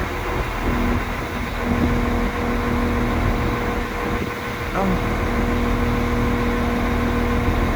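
Diesel passenger train's engine idling while it stands, a steady low rumble with a held hum.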